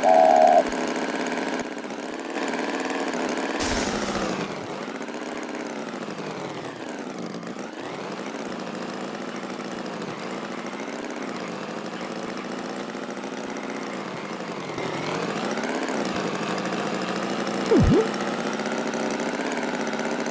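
An engine running steadily, its pitch sagging and rising slowly a few times. There is a short high tone at the very start, and a brief tone that falls in pitch near the end.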